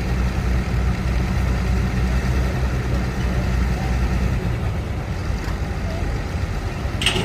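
Tractor engine idling with a steady low hum that turns rougher and less even about four and a half seconds in; a sharp click sounds near the end.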